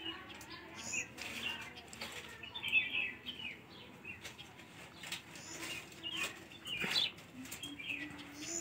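Small birds chirping in short, high calls scattered throughout, with a few faint clicks.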